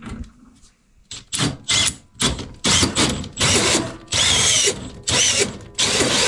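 A power drill with a 3-inch hole saw starting a hole in wooden wall boards. It runs in short bursts that grow longer, with the motor's whine rising and falling, then runs steadily near the end.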